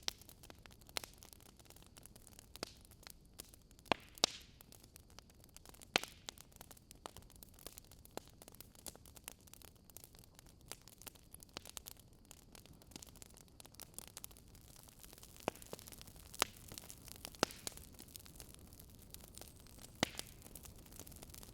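Wood fire crackling: irregular sharp pops and snaps of burning logs over a soft steady hiss, with a handful of louder pops scattered through.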